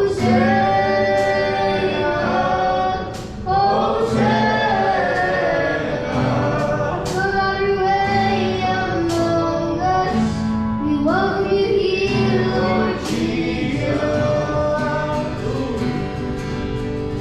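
Group worship singing: male and female voices sing a Christian worship song together over steady instrumental backing.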